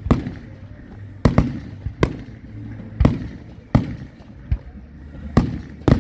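Fireworks display: aerial shells bursting in sharp bangs, about nine in six seconds at irregular gaps, with a low rumble between them.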